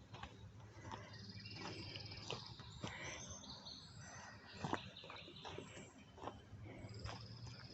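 Small birds singing with high, fast trills in woodland, over a steady low hum, with scattered light knocks and ticks of footsteps on the trail; the loudest knock comes a little past the middle.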